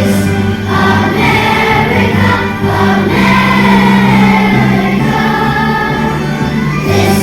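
A school choir of students singing together over an instrumental accompaniment with steady held low notes.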